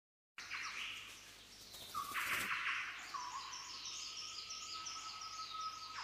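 Birds singing: a long held whistle-like note under rapid, repeated high chirps.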